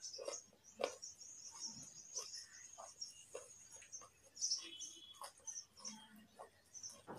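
Raw carrot being chewed with the mouth closed, close to the microphone: irregular crisp crunches and clicks about every half second. A thin, high steady tone runs underneath.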